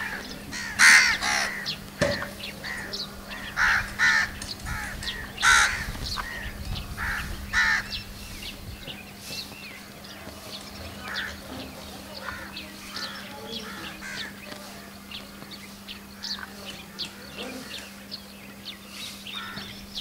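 Wild birds calling: several loud short calls in the first eight seconds, then many faint short chirps, over a steady low hum.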